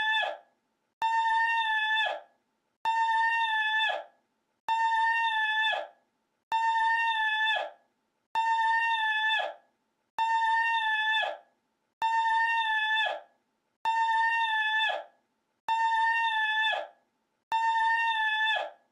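The same short, high, steady-pitched cry replayed as a loop, about ten times, once every two seconds or so, with a dead-silent gap between repeats and a slight drop in pitch at the end of each.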